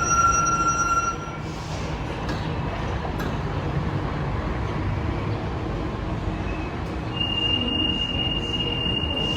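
Santiago Metro train running through the station with a steady rumble and high steady whining tones; the tones cut off about a second in and a new single high whine starts near the end.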